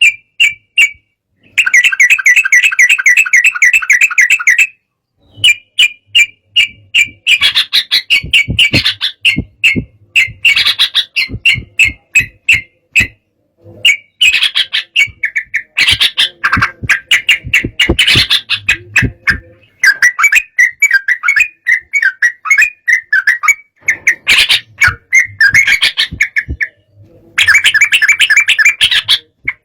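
Yellow-vented bulbul (trucukan) singing in an excited state: loud, rapid bubbling and chattering phrases around a fairly high pitch, repeated in runs of a few seconds with short pauses between them.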